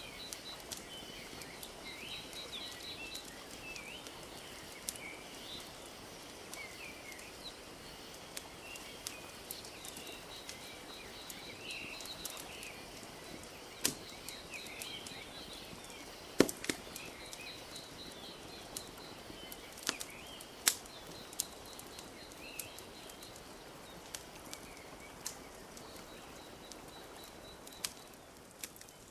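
Wood fire crackling, with scattered sharp pops (the loudest about halfway through), over a steady wash of lake water lapping. Small birds chirp and a fast high trill repeats.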